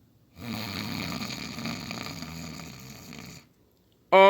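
A person snoring: one long, rough snore that fades out gradually, acted out by someone settling down to sleep.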